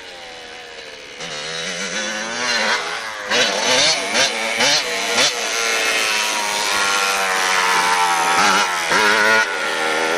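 Small motorbike engine running and being revved, its pitch rising and falling, with a few quick throttle blips about three to five seconds in.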